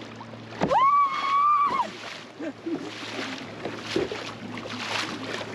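A high, drawn-out cry of 'woo!' about a second in, held for about a second, then water sloshing and splashing around a sea kayak being paddled into a cave.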